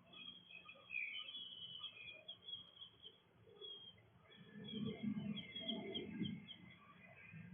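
Small birds chirping and twittering in short, quick notes. A low, noisy rumble rises about halfway through and fades again before the end.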